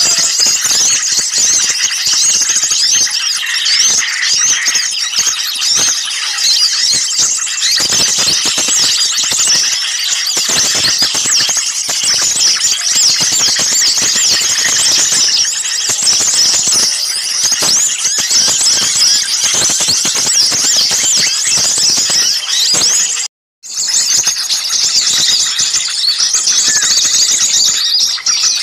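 Mixed small songbirds in an agitated, noisy chorus: many high-pitched chirps, trills and scolding calls overlapping without pause, the kind of excited small-bird clamour played as a bird lure. The sound cuts out for a split second about 23 seconds in, then the chorus resumes.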